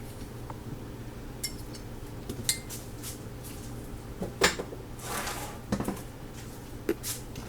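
Dishes and kitchen utensils clinking and knocking as they are handled and set down on a counter: a handful of separate short clinks spread through the few seconds.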